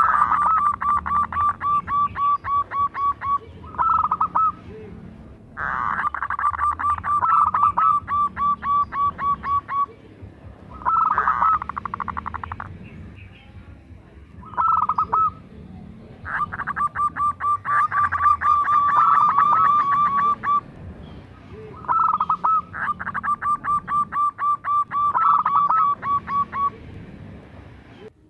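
Zebra dove (perkutut) singing: repeated bouts of rapid staccato cooing, about four notes a second, each bout a few seconds long with short pauses between.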